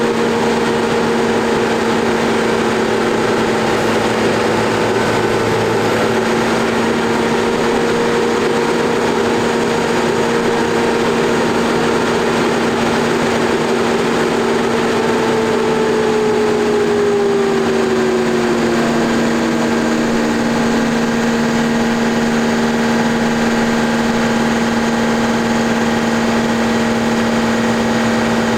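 New Holland T6080 tractor's six-cylinder diesel engine running hard on a dynamometer: a loud, steady drone in which one higher tone slides down in pitch a little past halfway through.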